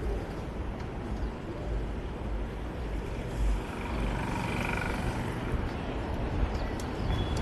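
Wind buffeting a bike-mounted action camera's microphone while riding through city street traffic: a steady low rumble with the hum of passing vehicles.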